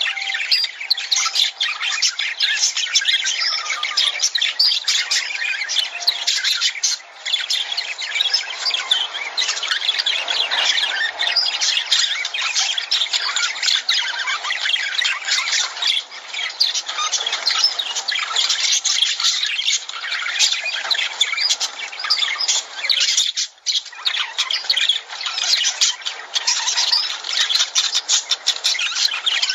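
A flock of lovebirds chattering, with constant overlapping shrill squawks and chirps.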